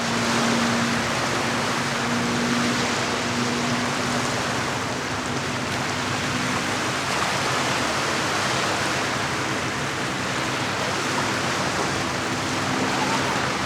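Steady wash of lake water against the shore, with a faint low hum that fades out about halfway through and returns near the end.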